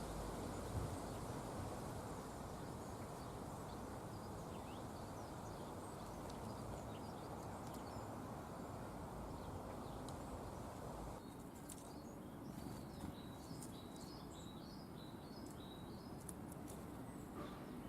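Small garden birds chirping and twittering over a steady low background rumble; the chirps are faint and sparse at first, then come in a quick busy run through the latter part.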